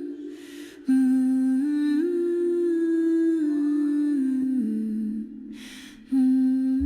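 A voice humming a slow melody of held notes that step up and down, with two short pauses, one about half a second in and one near the end, each filled by a breath-like hiss.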